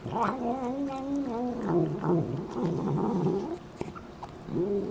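A cat yowling: one long drawn-out call of about three and a half seconds that wavers and drops lower partway through, then a short meow near the end.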